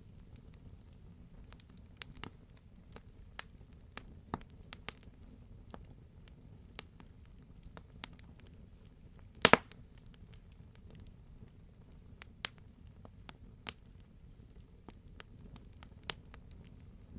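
Wood campfire crackling: scattered sharp snaps and pops over a low steady rumble, with one loud double pop about halfway through.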